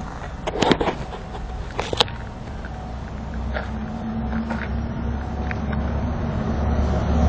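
Harley-Davidson Fat Boy motorcycle being readied to start: two sharp clicks, then a steady low hum that slowly grows louder.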